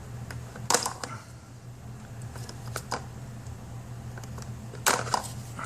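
Sharp plastic clicks and knocks from handling the clip of a sensor's electrical connector on the Hummer H3 throttle body, loudest about a second in and a double knock near the end, over a steady low hum.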